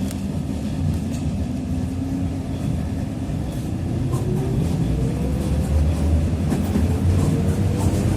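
TrolZa-5275.05 Optima trolleybus under way, with a whine from its Ishimbay drive axle and DK-213A traction motor rising in pitch as it gathers speed. The whine then holds steady, over a low ride rumble and light rattles.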